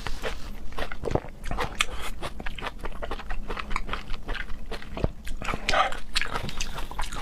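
Close-miked chewing of seafood, with irregular wet smacks and clicks of the mouth and lips.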